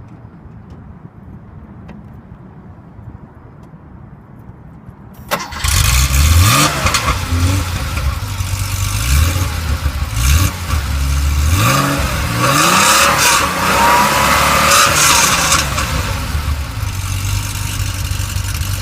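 A 1983 Porsche 911 SC's air-cooled 3.0-litre flat-six, built with high-compression Mahle pistons, a 964 cam, straight-through headers and a Dansk sport muffler, catches and starts about five seconds in. It is blipped up in pitch several times, then settles into a steady idle near the end.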